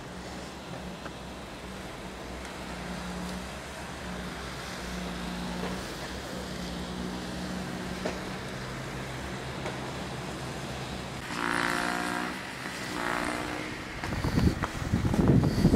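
A snowblower's small engine running steadily, its pitch shifting slightly as it works. Two short, louder pitched sounds come near the end, followed by a loud rushing noise.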